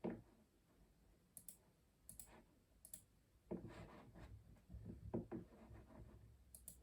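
Custom mechanical keyboard keystrokes, faint and irregular: single clicks with gaps between them, and a short run of several keys around the middle.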